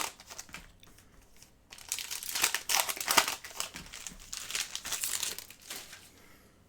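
Trading card pack wrapper crinkling in several bursts as it is handled and opened.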